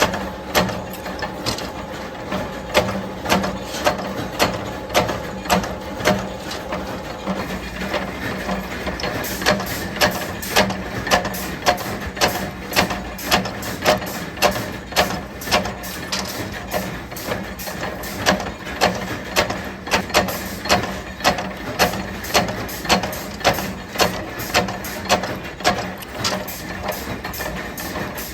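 Factory machinery working metal: sharp, evenly spaced knocks, a little faster than one a second, coming closer together after about nine seconds, over a steady motor hum.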